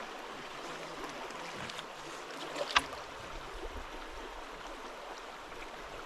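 Shallow stream water rushing steadily over a riffle, with one sharp knock about three seconds in.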